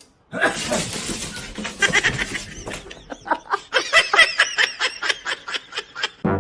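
A person laughing hard: a noisy outburst, then a run of quick rhythmic bursts of laughter, about four or five a second.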